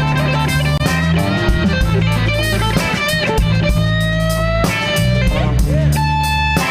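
Live rock band playing a song's instrumental intro: electric guitar lines with bent, gliding notes over steady bass and drums.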